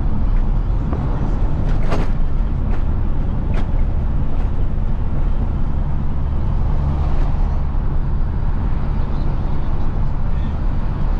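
Isuzu FRR90 truck's diesel engine running steadily under way, a strong low drone, with a few brief clicks and rattles in the first few seconds.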